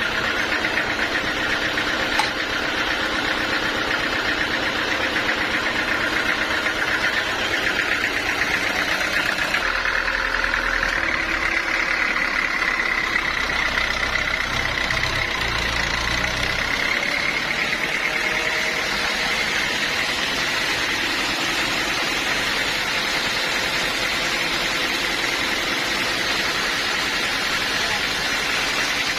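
Band sawmill running steadily with a continuous high whine, which rises a little in pitch about ten seconds in, over a low rumble that fades after about seventeen seconds.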